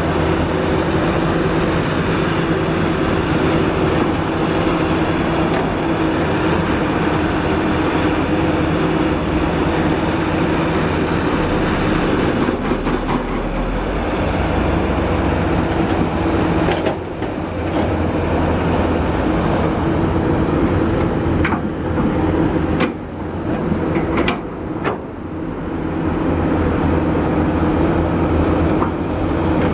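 Kobelco SK350 hydraulic excavator working: its diesel engine runs steadily under load with a held hydraulic whine, and a few sharp knocks come in the second half.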